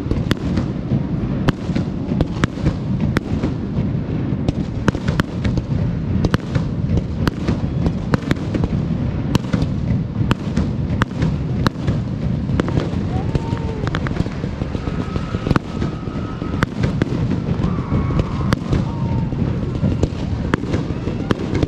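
Aerial fireworks display: a dense run of booming bursts and sharp cracks, several a second, over a continuous low rumble of launches and explosions.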